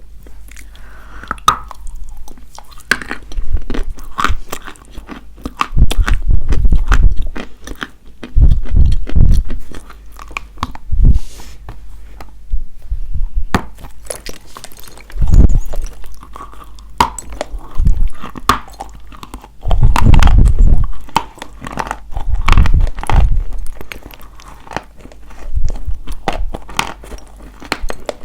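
Dry white chalk being bitten and chewed close to the microphone: sharp crunches and crackles in bursts every one to three seconds, with low chewing sounds between them.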